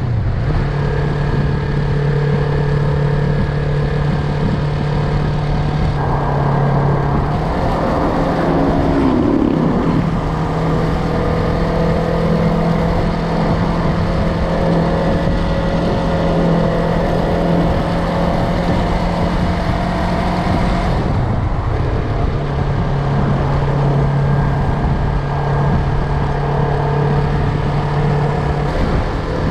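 Yamaha MT-03 motorcycle engine running at a steady cruise under wind and road noise. Its note changes about a quarter of the way in, with a brief downward glide in pitch, and settles lower about two-thirds of the way through.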